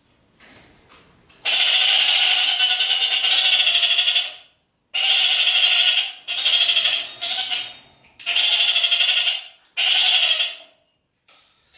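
Red-crowned kakariki (parakeet) calling with loud, rapid chattering in five bouts, the first about three seconds long.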